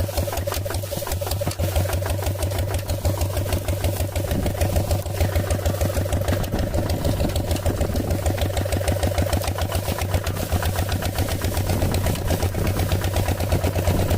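Small motor of a mini tractor running steadily, with a rapid, even pulsing beat.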